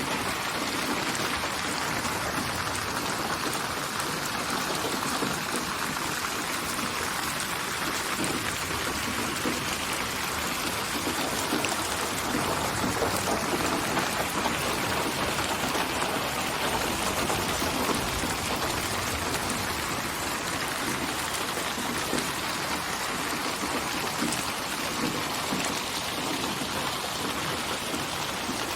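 Steady rainfall: an even, unbroken hiss of many drops pattering on a surface.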